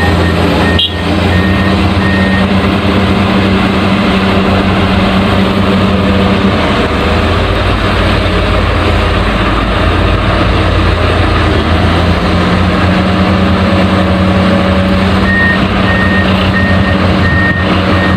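Heavy excavator engine running steadily with a low drone, and a reversing alarm beeping steadily for the first couple of seconds and again over the last three.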